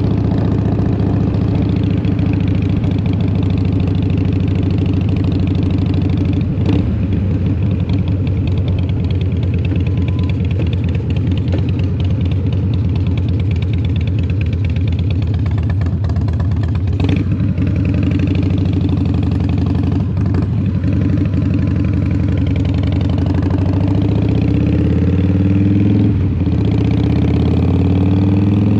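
Harley-Davidson Twin Cam 88 V-twin running through a Vance & Hines exhaust while riding, holding a steady pitch with a few short knocks. Near the end the revs climb, with one brief break partway.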